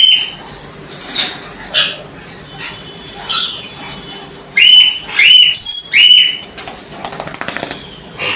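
Lory calling with shrill calls that sweep up in pitch and hold. There are a few fainter calls, then three loud ones in quick succession about halfway through, followed by a short rapid flurry that sounds like flapping wings.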